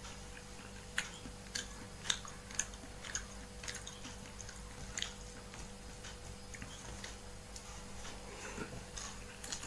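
A person chewing mouthfuls of rice and catfish curry, with scattered small clicks and smacks, most of them in the first half.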